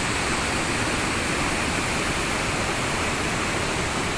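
Mountain waterfall pouring, a steady even rush of falling water.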